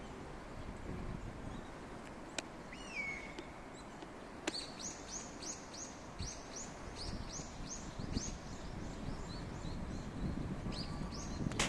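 Small birds singing over a steady low rush of river and wind: one call that slides down in pitch about three seconds in, then a fast run of high, downward-sliding notes lasting about five seconds. Two short clicks, the second just as the run begins.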